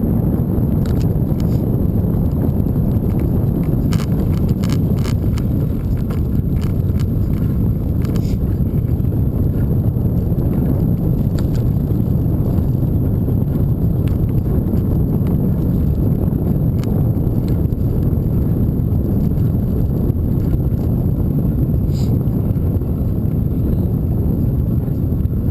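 Steady wind rumble on the microphone and road noise from a moving bike, with scattered clicks and rattles that bunch up about four to nine seconds in.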